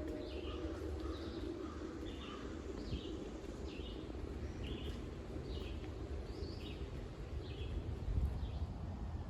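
A songbird calling over and over, short high notes about every half second to every second, over a low steady rumble.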